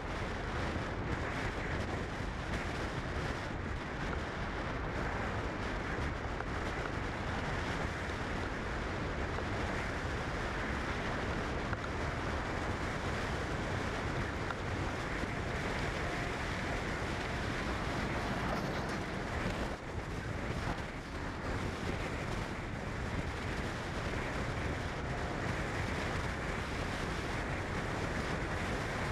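Steady rushing noise with a brief dip about twenty seconds in.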